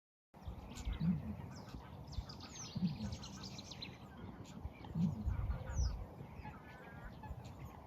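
Eurasian bittern booming: three short, deep hoots about two seconds apart, with small birds calling and a low rumble behind.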